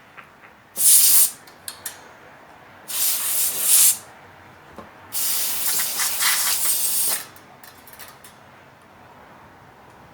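Three hissing bursts of spray, most likely from an aerosol can: a short burst about a second in, a longer one about three seconds in, and the longest lasting about two seconds, starting about five seconds in.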